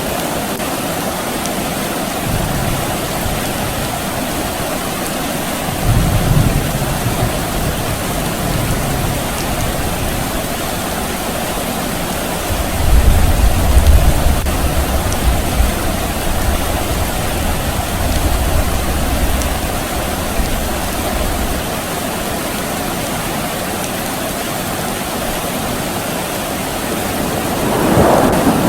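Steady soft rain with distant thunder rumbling low: once briefly about six seconds in, then for about nine seconds from near the middle. A short swelling whoosh near the end.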